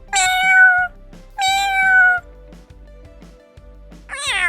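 A cat meowing: two drawn-out meows in quick succession, each holding a fairly level pitch, and a third meow near the end that rises then falls, over background music with a steady beat.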